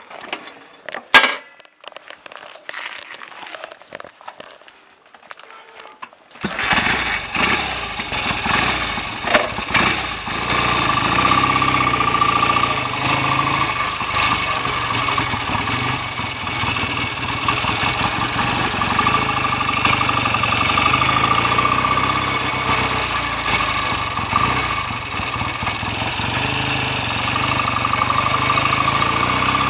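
A few clicks and knocks, the loudest a sharp click about a second in, then about six seconds in the BSA A65's 650 cc parallel-twin engine starts and settles into a steady idle.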